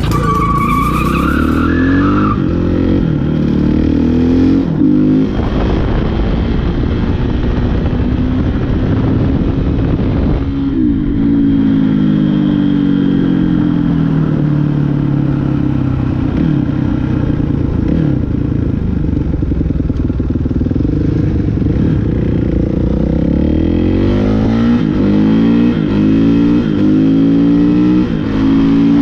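Dirt bike engine revving hard and shifting up through the gears, its pitch climbing and dropping again and again as the bike accelerates, eases off and accelerates once more.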